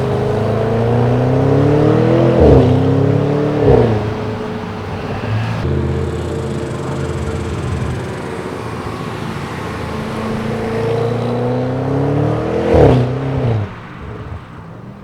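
Audi RS6's twin-turbo V8 accelerating hard through the gears. Its exhaust note climbs in pitch and drops sharply at each upshift, twice early and once near the end, with a loud burst at each shift.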